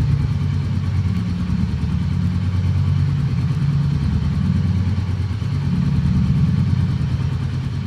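Royal Enfield Meteor 350's single-cylinder 349 cc engine idling steadily.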